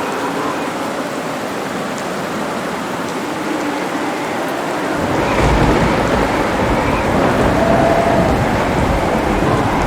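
Steady heavy rain, with a deep rumble of thunder rolling in about halfway through and continuing.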